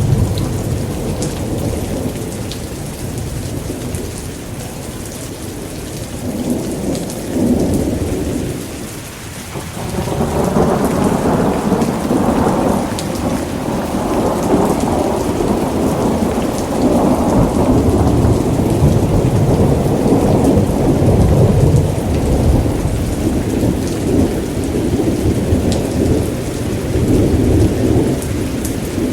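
Steady heavy rain with long low rumbles of thunder. The rumbling dips briefly about nine seconds in, then builds again and stays strongest through the middle of the stretch.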